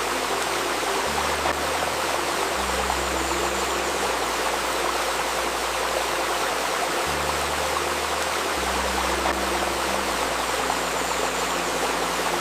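Babbling river water running steadily, with a soft drone of low sustained tones that shift every couple of seconds beneath it.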